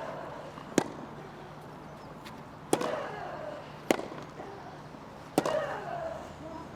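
Tennis rally: a tennis ball struck by racquets four times, the hits about one and a half to two seconds apart, with a player's grunt on two of the shots.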